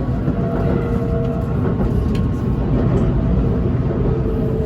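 BTS Skytrain train running: a steady low rumble with faint, held humming tones over it.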